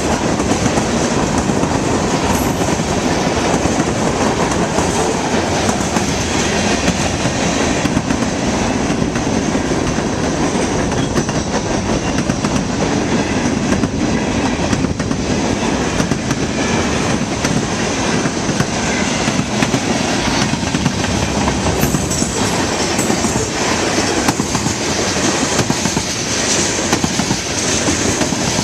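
Cars of a mixed freight train rolling past close by, a steady loud rumble with wheels clicking over the rail joints and some faint wheel squeal.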